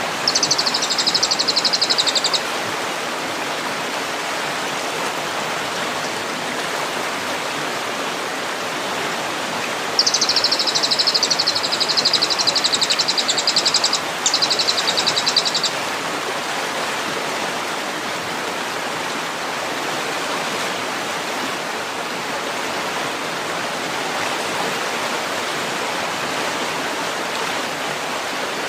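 Steady rushing water under a small songbird's rapid, high-pitched trills: a short trill at the start and a longer one about ten seconds in, broken briefly near its end, with only the water between them.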